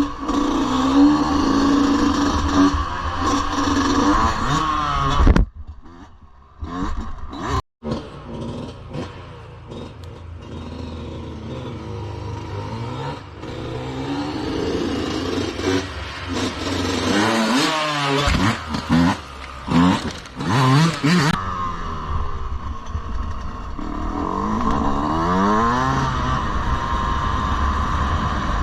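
Yamaha 125cc dirt bike engine running and revving, its pitch rising and falling several times. Its sound drops away suddenly about five seconds in and comes back a few seconds later.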